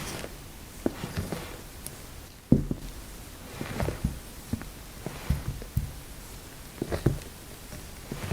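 Castella batter being folded by hand in a mixing bowl: the spatula scrapes the batter up from the bottom and turns it over, giving soft scrapes and taps against the bowl about once a second, with one louder knock about two and a half seconds in.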